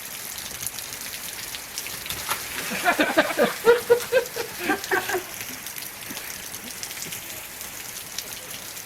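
Steady rain hissing down, with a burst of loud, wordless voices, like shouting or whooping, from about three to five seconds in.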